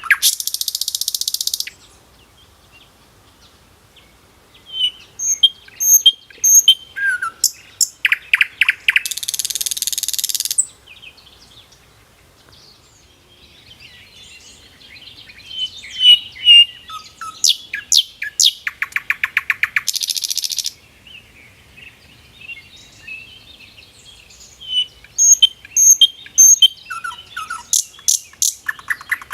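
Small songbird chirping and trilling, with a loud rasping, hiss-like call lasting about a second and a half. The same sequence repeats about every ten seconds, as a looped recording.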